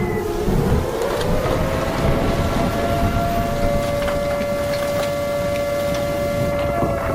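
Hurricane-force wind roaring, with a wailing whistle over it that rises in pitch about a second in and then holds steady.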